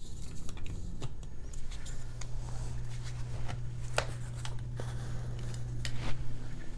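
Hands fitting a microphone stereo bar onto a tabletop mount: scattered clicks, taps and rubbing of small parts, with two sharper clicks around four and six seconds in. A steady low hum runs underneath from about a second and a half in.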